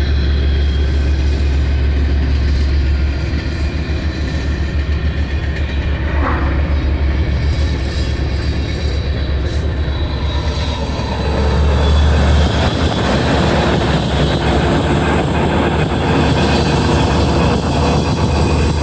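Union Pacific train rolling past, a loud steady low rumble that settles into an even pulsing beat of the cars over the track.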